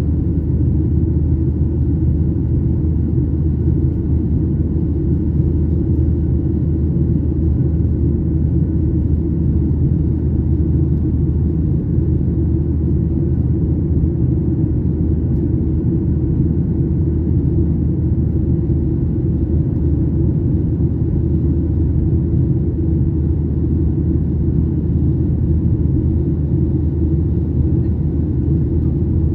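Steady low rumble of engine and airflow noise inside a passenger airplane's cabin, with no change in level.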